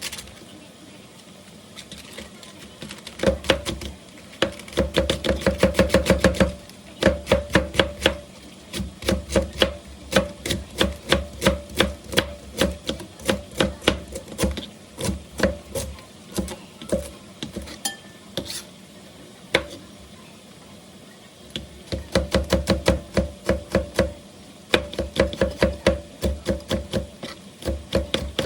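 Kitchen knife chopping quickly on a cutting board, several even strokes a second in long runs, with two short pauses, one near the start and one about two-thirds of the way through.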